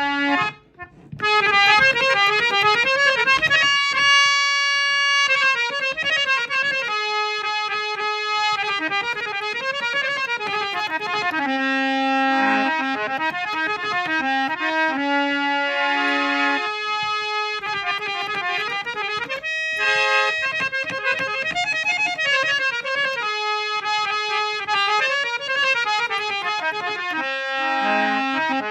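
A harmonium over fifty years old, a hand-pumped reed organ, playing a solo melody of held notes and quick running phrases. There is a brief break about a second in.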